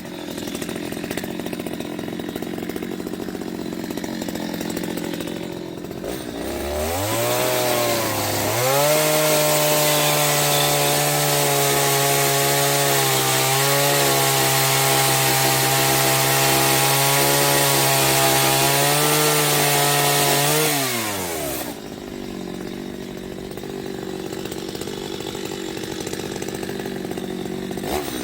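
Chainsaw engine idling, then throttled up about seven seconds in to a steady high rev held for some thirteen seconds, before dropping back to idle near the end.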